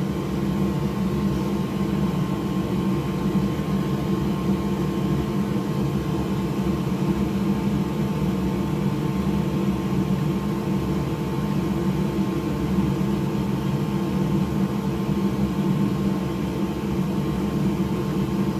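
Steady machine hum, a low drone with several held tones, unchanging throughout, like a fan or motor running in a workshop.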